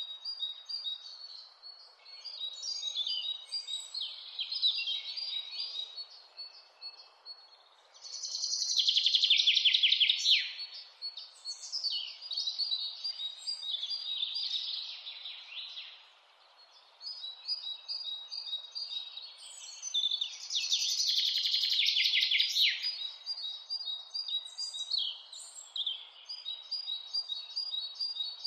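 Several birds singing and calling over one another, with two loud, rapid trills, about eight and twenty seconds in, over a faint steady hiss.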